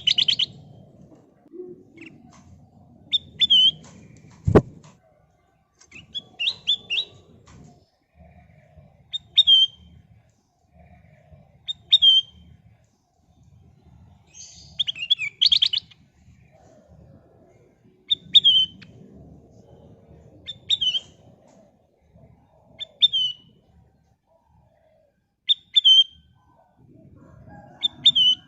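Kutilang emas bulbul giving short, loud chirping calls about every two to three seconds, each a quick hooked whistle. A sharp click sounds once, about four seconds in, over a faint low rumble.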